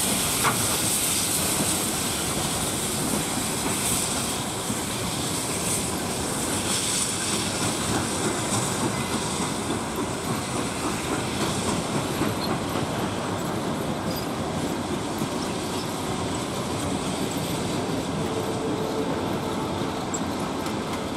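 Railway train rolling along the track with a steady noise of wheels on rails. A hiss of steam from the steam locomotive fades out over the first several seconds.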